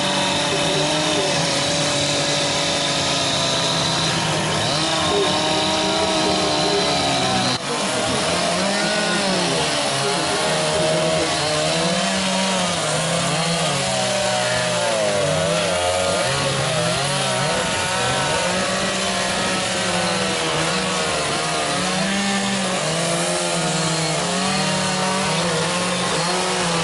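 Chainsaw running steadily while carving wood, its engine pitch rising and falling as the throttle and cutting load change.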